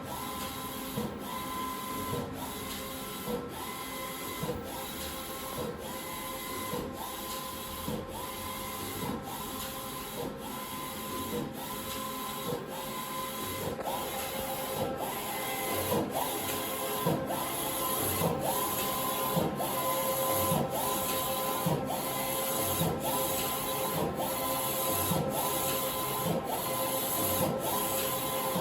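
Eco-solvent wide-format printer printing, its print-head carriage sweeping back and forth about once a second with a repeating whir. A little louder in the second half.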